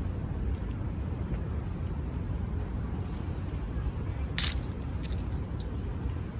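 Steady low background rumble, with a brief sharp hiss about four and a half seconds in.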